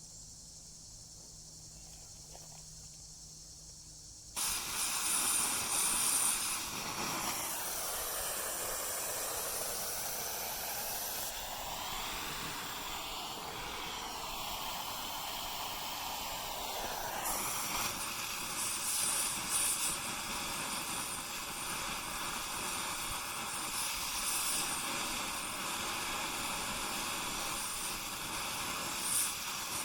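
Oxy-fuel cutting torch hissing. It starts suddenly about four seconds in and then runs steadily.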